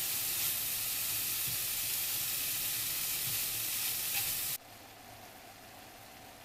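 Canned corned beef sizzling as it fries in a pan, a steady hiss that drops abruptly to a much fainter hiss about four and a half seconds in.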